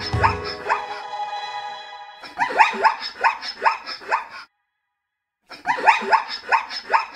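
Zebra barking: runs of short, high, rising yips, heard three times, with a brief total silence between the second and third runs.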